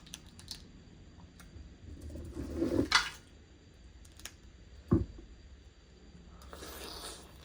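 Mud crab shell being cracked and picked apart while eating, with small clicks throughout, a crunching build-up ending in a loud crack about three seconds in, and a sharp knock about five seconds in.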